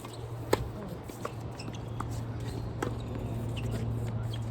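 Sharp knocks of a tennis ball off rackets and the court, with footsteps, the loudest knock about half a second in. A steady low hum runs underneath.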